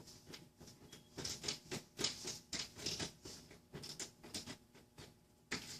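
Phillips screwdriver turning small screws into a metal LED light strip: a run of irregular small clicks and scratchy scrapes.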